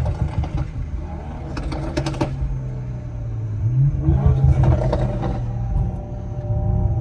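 Turbocharged B58 inline-six car engine running under way, rising in pitch and getting louder as it accelerates about four seconds in. A few short clicks come near two seconds in.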